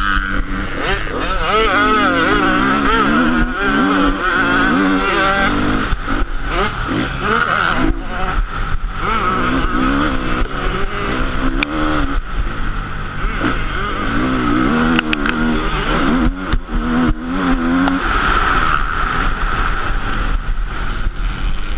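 Motocross bike engine revving up and down over and over, its pitch rising and falling, with frequent short knocks.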